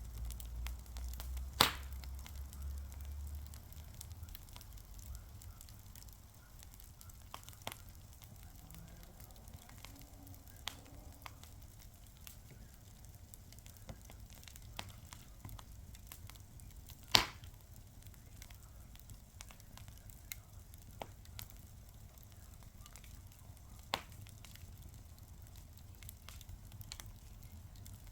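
Fire crackling with scattered sharp pops over a faint steady hiss. The loudest pops come about two seconds in and near the middle. A low rumble is heard during the first few seconds.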